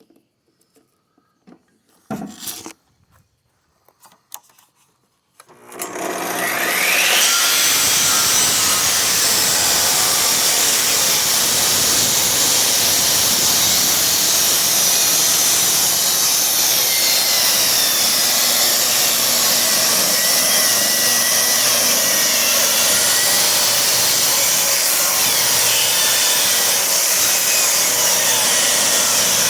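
After a few faint knocks, a table saw starts about five seconds in, its motor and blade rising quickly to speed, then runs loudly and steadily as it rips an oak board down toward 3/4-inch thickness.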